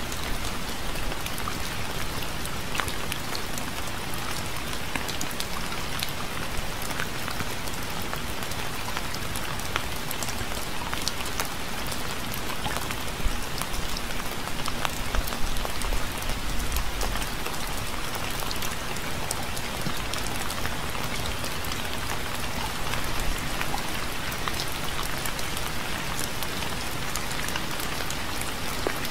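Steady rain falling: a dense, even hiss with many separate drops ticking sharply on a surface.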